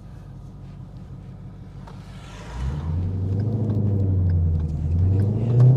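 Ford Mustang Shelby GT350's 5.2-litre flat-plane-crank V8 running low and steady, then about two and a half seconds in it pulls away hard. The engine note climbs and grows louder, dips briefly near the end, then climbs again.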